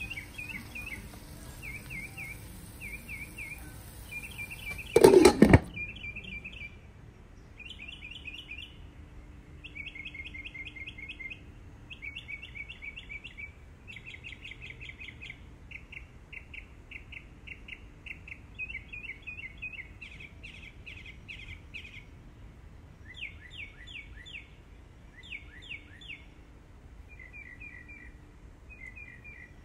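Small songbirds singing, short chirping trills repeated phrase after phrase, with a brief loud thump about five seconds in.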